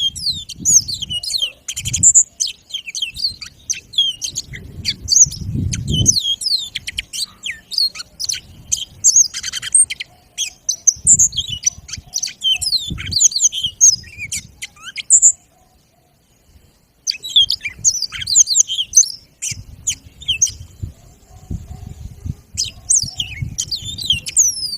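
Yellow-fronted canary (Mozambique finch, granti type) singing vigorously: long bursts of fast, high twittering and trilled notes, broken by a short pause about two-thirds of the way through. Low rumbles come and go under the song.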